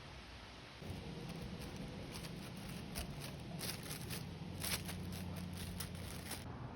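Wind blowing through trees, faint and steady, picking up about a second in. Through the middle there is a run of short, sharp clicks and rustles, such as leaves and twigs make in the wind.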